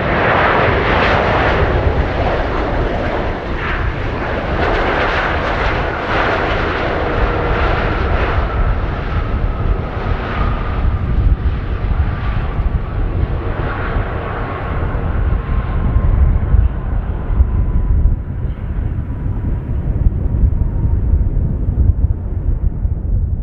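Airbus A330-300 jet engines running loud, with a dense roar and a faint whine that slowly falls in pitch as the airliner passes. The sound eases off near the end.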